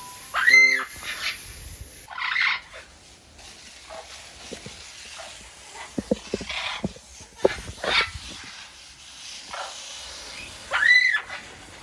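St. Vincent amazon parrots squawking. One loud arching squawk comes about half a second in and another near the end, with fainter, shorter calls in between.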